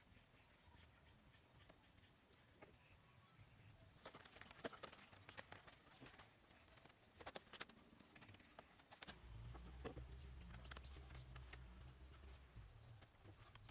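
Faint, irregular tapping and knocking, with a low rumble joining in during the second half.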